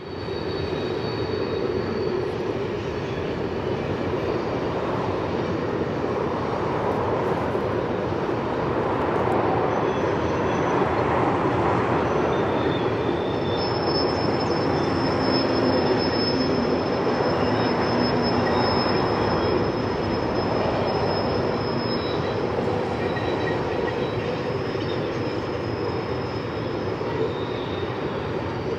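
CN freight train rolling along the track, a steady rumble of wheels on rails with a thin, high wheel squeal through the middle as the cars take a curve.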